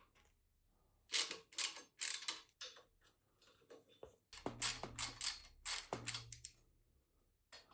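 Clicking, rattling and scraping of metal parts and tools being handled in two bursts, with a brief low hum twice in the second burst.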